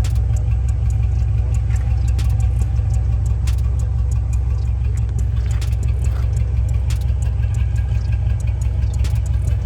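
Carbureted old-school Chevrolet engine idling steadily, with a few faint clicks over it.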